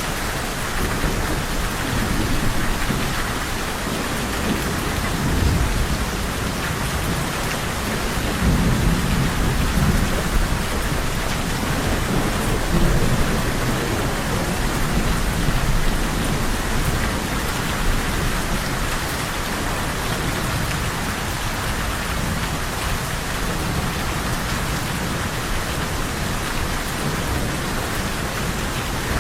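Steady rain pouring down, with low rumbles of thunder swelling and fading several times, mostly in the first half.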